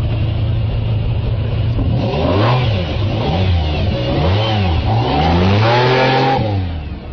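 Car engine running steadily, then revved up and down several times, the last rev held longest before it drops away near the end.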